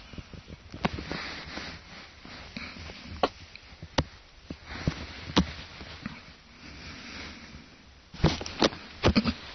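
A pet sniffing in short puffs, with scattered sharp clicks and taps that cluster most loudly near the end.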